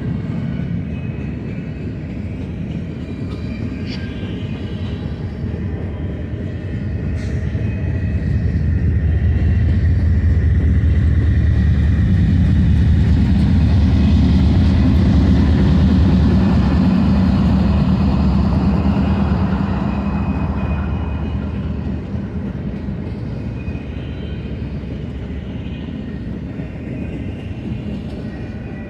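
BNSF intermodal freight train rolling past: a steady low rumble of wheels on rail that swells louder for several seconds in the middle, then eases back down.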